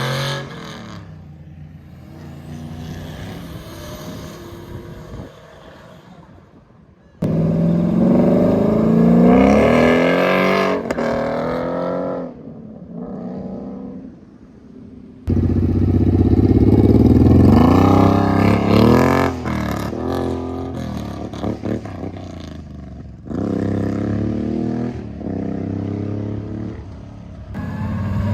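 Muscle car engines revving hard in a run of short clips, the pitch climbing and falling again and again. Loud stretches start and stop abruptly, with quieter stretches in between.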